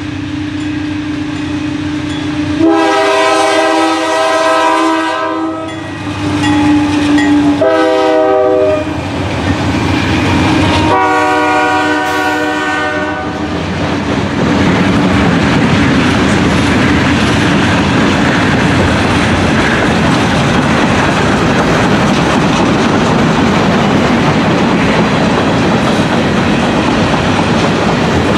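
A freight train's horn sounds several blasts, the last a long one ending about thirteen seconds in. The train then passes close by with a steady loud rumble and clatter of wheels on rail.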